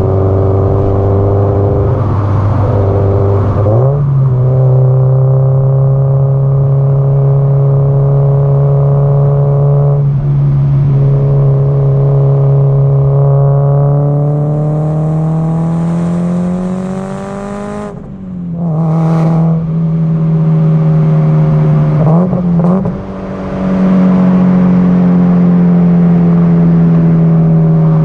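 Subaru Impreza WRX STI (GDB-E) turbocharged flat-four running under way, its exhaust note loud and steady. The revs step up about four seconds in, climb steadily, then drop sharply about two-thirds through with a brief hiss as the gear changes. After another short dip and rise, the note settles and slowly eases down while cruising.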